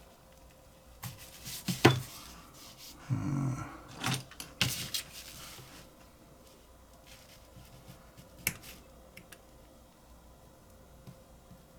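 Small handling sounds from working on a butane lighter: several sharp clicks and knocks with a short scrape in the first few seconds, then one more click a few seconds later.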